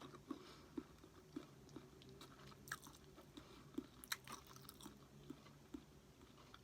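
Faint chewing of sushi: soft, irregular mouth clicks and smacks.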